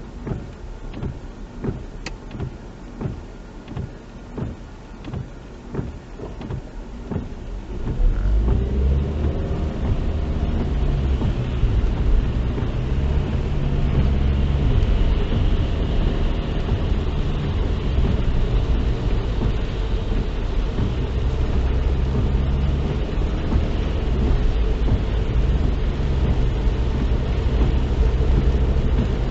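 Car interior: at first a quieter engine with a regular tick about twice a second. About eight seconds in, the engine pulls away and rises in pitch, and a loud, steady engine and road rumble holds from then on.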